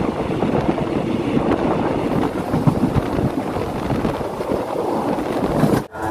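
Wind buffeting a microphone held out of a moving passenger train's window, over the rumble of the train running on the rails. The sound is steady and loud, then stops abruptly near the end.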